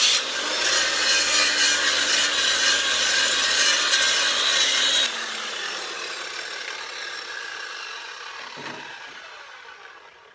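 Angle grinder cutting into the concrete foundation wall along a crack, grinding out an old soft patch. About five seconds in the grinder is switched off and the sound winds down and fades away.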